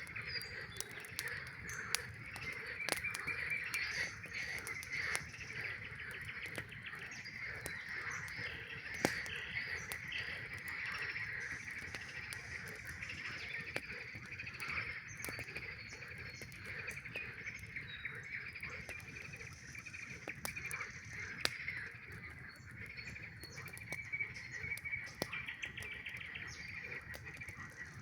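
A dense chorus of frogs, many trilling calls overlapping in a steady high band, with the sharp pops and crackles of a campfire scattered through it.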